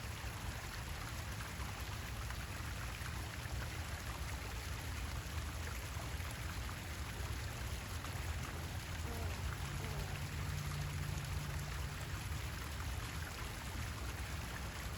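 Steady hiss of water, like rain or running water, with a low hum underneath that briefly rises a little in pitch from about ten seconds in.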